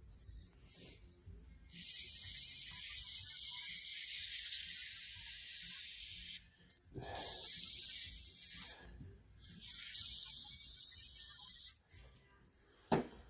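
Aerosol carburetor cleaner spraying in three long hissing bursts, the first about four seconds, the next two shorter. A short knock near the end.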